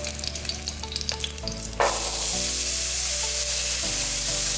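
Oil crackling in a hot pot with a green onion frying, then about two seconds in red beans go into the oil and a loud, steady sizzle takes over while a wooden spoon stirs them.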